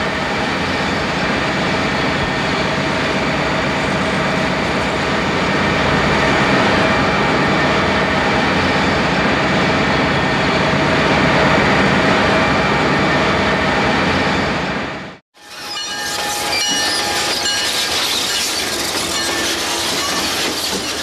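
Diesel locomotive hauling a coal train, heard from aboard: a steady mix of engine and wheel-on-rail noise. It cuts off abruptly about 15 seconds in, and then a train rolls slowly past with a thin, high wheel squeal.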